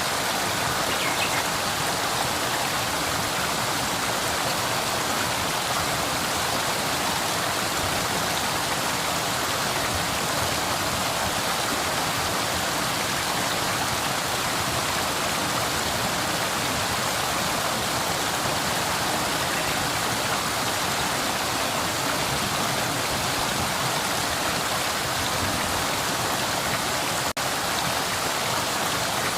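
Flowing river water, a steady rushing and babbling with a brief momentary break near the end.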